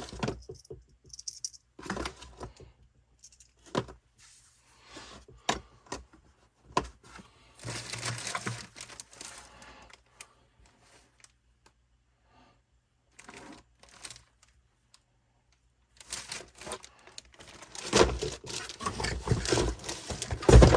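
Parts of a transfer case rebuild kit being handled: plastic packaging crinkling and rustling, with scattered clicks and clinks of small parts. The handling is sparse with a quiet pause in the middle, and busiest near the end.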